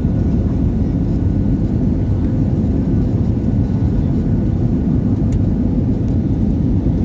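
Steady low rumbling roar of an airliner on its landing approach, holding an even level without rising or fading.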